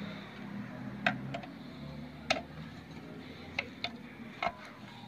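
Scattered sharp clicks and taps, about six, from small tools and clothes-iron parts being handled during the repair. They come over a low hum that fades out about halfway.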